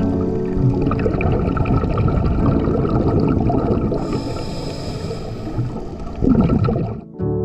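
Underwater sound of scuba diving: a diver breathing through a regulator, with a hiss about four seconds in and a louder gurgling rush of exhaled bubbles just after six seconds. Soft background music runs underneath.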